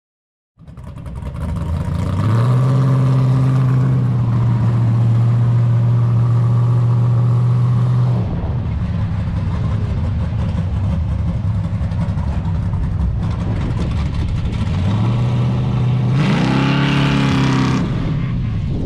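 A car engine running at raised revs with a steady pitch, easing off about eight seconds in, then revving up again with a quick rise and fall near the end before cutting off suddenly.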